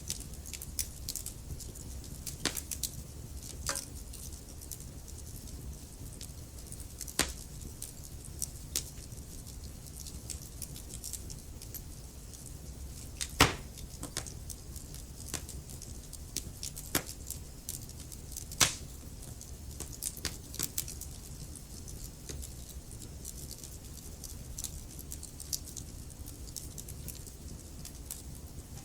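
Wood fire burning in a fireplace: a steady low rumble of flame with irregular crackles and sharp pops of burning wood, the loudest pops about 7, 13 and 18 seconds in.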